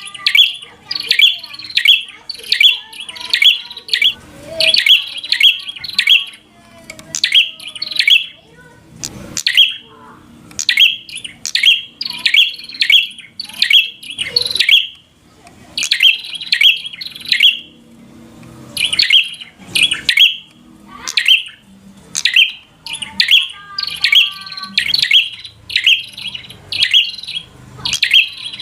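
Prinia (prenjak) singing: loud, sharp chirps repeated rapidly in phrases of several notes, with short pauses between phrases.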